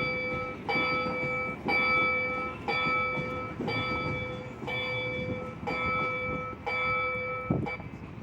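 Level crossing warning bell ringing, struck about once a second with a clear metallic ring, the last strike near the end.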